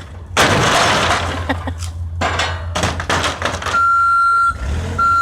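Over a steady low engine hum, a loud crash-like noise starts about half a second in and lasts nearly a second, followed by several shorter knocks and clatters. Near the end a steady high-pitched beep sounds twice.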